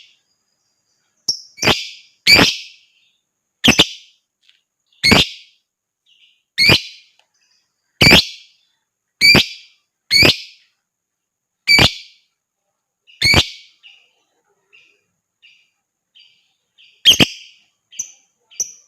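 Lovebird giving loud, shrill single calls, about one every second and a half. After about 14 s come a few soft chirps, then one more loud call near the end.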